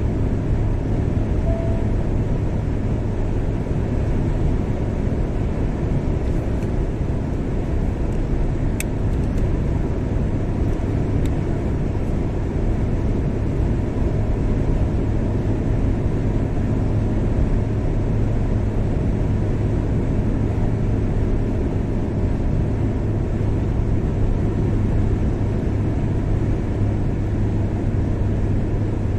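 Steady road and engine noise of a car driving along a highway at a constant speed.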